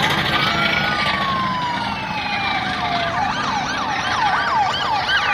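More than one police car siren sounding over highway traffic noise: a slow falling wail, then from about three seconds in a fast yelp cycling about three times a second.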